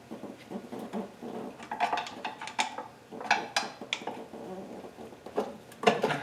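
Irregular metallic clinks and knocks of hand tools against the upper oil pan as it is worked loose from the engine block.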